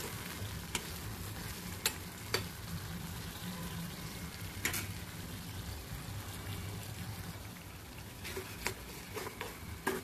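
Red lentils and ridge gourd sizzling in a pan while a metal spoon stirs them, with scattered clicks and scrapes of the spoon against the pan.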